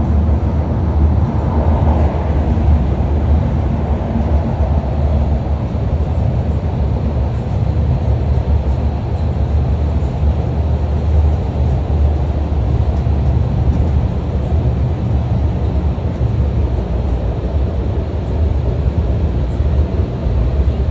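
A moving vehicle running steadily, a constant low rumble with an even wash of travel noise.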